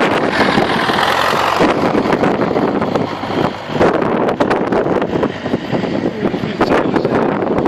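Loud, irregular wind buffeting on the microphone over a steady rumble of vehicle noise.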